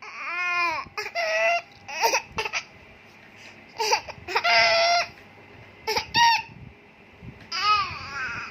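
A baby imitating a rooster's crow: a string of short, high-pitched calls that rise and fall in pitch, the longest about halfway through, mixed with giggling.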